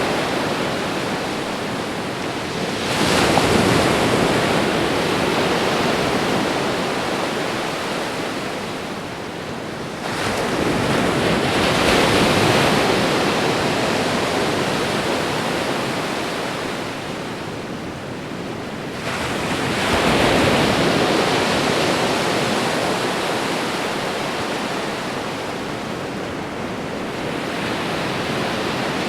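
Ocean waves crashing on a shore: a continuous wash of surf in which a wave breaks about every eight seconds, three times with a sudden surge and a softer fourth near the end, each fading into a long hiss of receding water.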